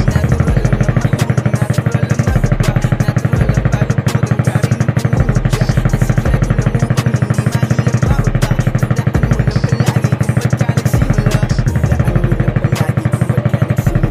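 Sport motorcycle's engine idling steadily, a fast even pulse.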